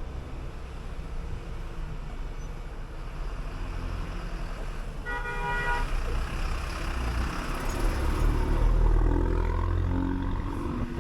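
City bus engine running under steady road rumble, growing louder about two-thirds of the way through. A vehicle horn sounds once for about a second near the middle.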